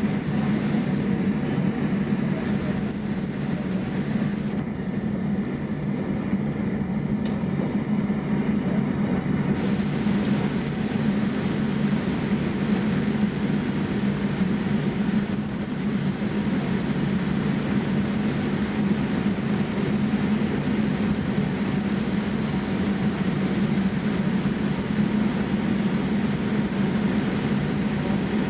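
Boeing 787-8 cabin noise: a steady, even drone of engines and airflow with a strong low hum, unchanging throughout.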